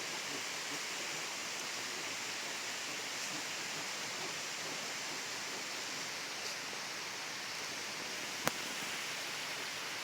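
Steady rushing of flowing water, with one sharp click near the end.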